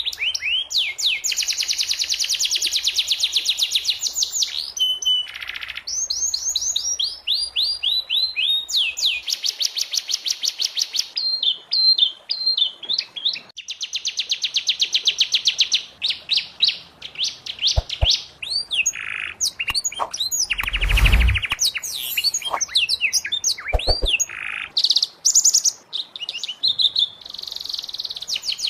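Domestic canary singing long phrases of rapid trills and rolling, repeated sweeping notes, with short breaks between phrases. About two-thirds of the way through there is one brief, harsher burst.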